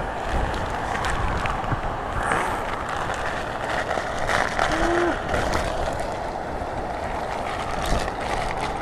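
Typhoon wind and rain as a steady rushing noise, with scattered small clicks and knocks.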